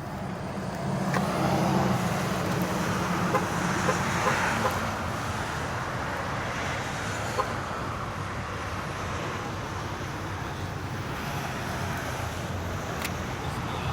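Car engine idling steadily with the hood open, a low even hum.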